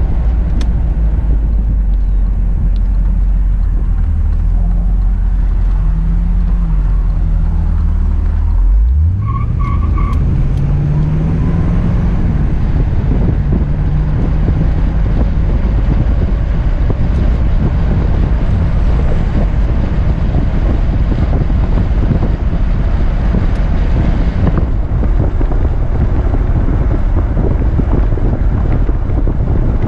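1978 Corvette V8 heard from inside the cabin, running at a low, steady pitch. About nine seconds in, the revs climb sharply as the car accelerates, rise and fall again through a gear change, then settle into cruising with steady wind and road noise.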